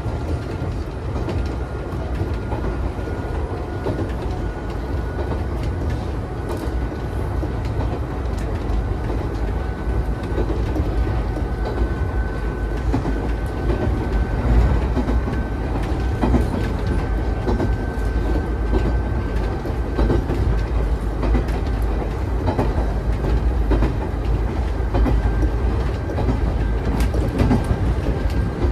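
Nagano Electric Railway 3500 series (ex-Teito Rapid Transit 3000 series) electric commuter train running at speed, heard from inside the car: a steady low rumble of wheels on rail with scattered rail-joint clicks and a faint high whine that rises slightly in pitch, then holds.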